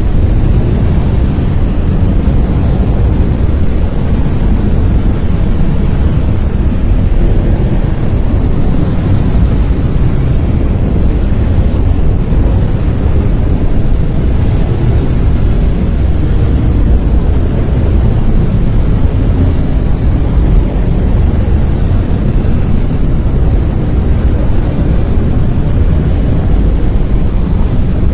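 Brown noise: a loud, steady rushing hiss weighted heavily toward the deep end, with no change or events.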